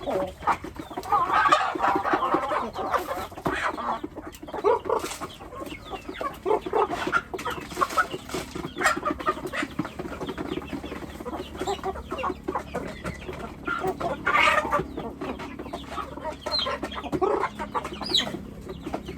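A flock of chickens clucking and calling continuously, mixed with many short clicks and taps.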